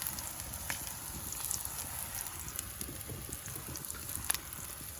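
Steady rain falling, with a low rumble and scattered sharp ticks.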